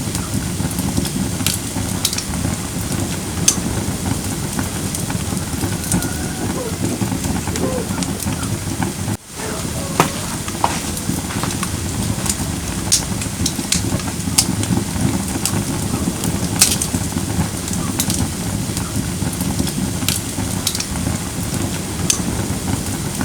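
Firewood burning in a camping fire pit: a steady low rush of flame with frequent sharp crackles and pops from the wood. The sound drops out for a moment about nine seconds in.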